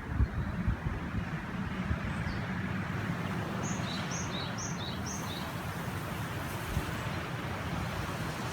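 A river rushing steadily, with wind buffeting the microphone in the first second or so. A small bird calls a quick run of about four or five short, high notes near the middle.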